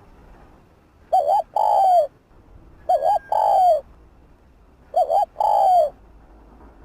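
Spotted dove cooing: three calls about two seconds apart. Each is a quick doubled note followed by a longer note that falls in pitch.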